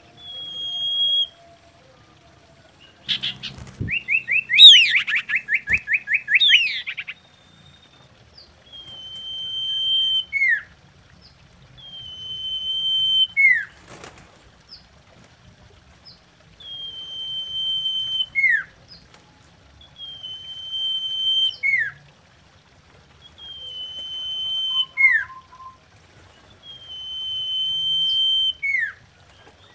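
Common iora singing: a long, level whistle that swells in loudness and ends in a short downward-slurred note, repeated every three to four seconds. A few seconds in, a loud, fast trill of rapid sweeping notes lasts about four seconds.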